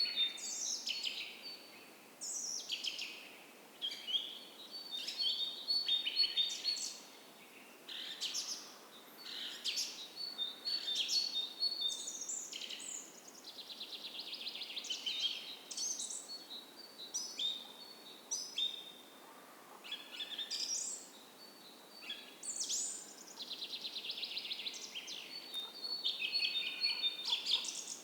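Dawn chorus of several songbirds, with overlapping chirps, short whistled phrases and rapid trills, over the faint steady rush of a small creek.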